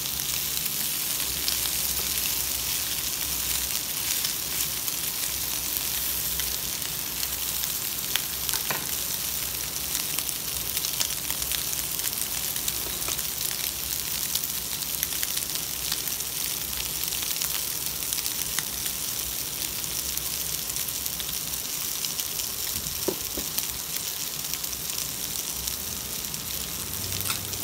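Chicken breast pieces sizzling steadily in hot oil in a frying pan, with scattered small crackles.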